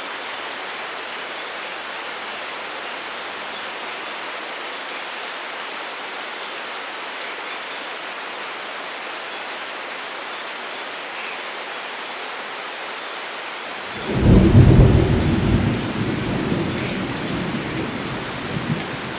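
Steady heavy rain falling, with a loud rumble of thunder breaking in about fourteen seconds in and slowly fading.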